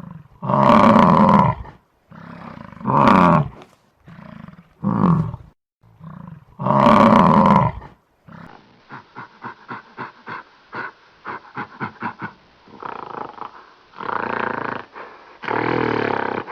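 A big cat roaring: several long, loud roars, then a run of short grunts at about three a second, and two more roars near the end.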